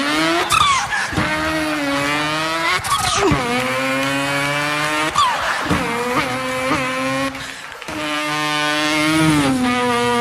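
A man's voice imitating a racing car engine, holding a buzzing engine note through a series of revs, with the pitch jumping and gliding between them like gear changes.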